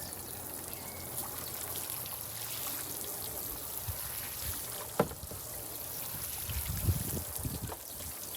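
Water trickling and running steadily, with a sharp click about five seconds in and a few low knocks near the end.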